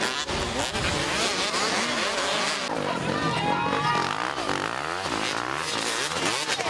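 Several motocross bikes racing, their engines revving up and down in overlapping rising and falling pitches.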